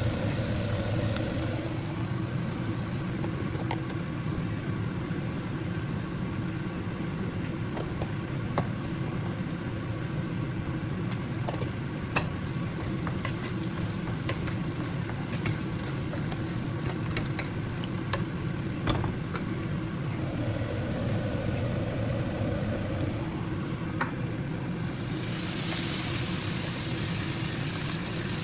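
A steady low hum, like a kitchen fan or appliance running, with scattered light clicks of utensils. Near the end, food starts sizzling in a hot pan.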